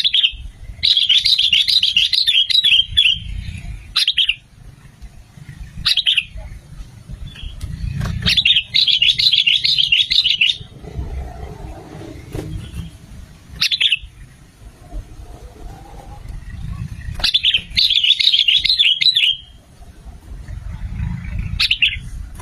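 Sooty-headed bulbul (kutilang) singing: three bouts of fast, bubbling chatter about two seconds each, with short single call notes in between, over a low background rumble.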